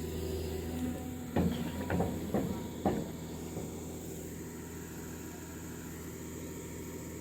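Diesel engine of heavy earthmoving machinery running steadily, with four sharp knocks in quick succession about one and a half to three seconds in.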